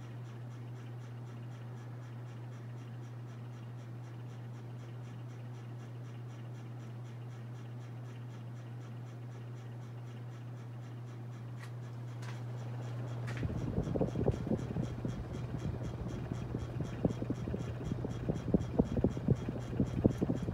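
Harbor Breeze Armitage 42-inch ceiling fan running with a steady low motor hum. About two-thirds of the way in, a louder, irregular crackling scratch full of sharp spikes starts over the hum.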